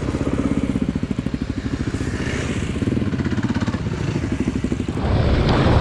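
Single-cylinder dual-sport motorcycle engine running under way at a steady pace, its fast, even firing pulses plain, getting louder and rougher about five seconds in.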